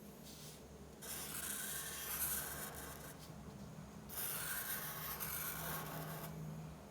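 A drawing tool rubbing and scratching across paper in two long spells of strokes, each about two seconds, as when colouring or shading.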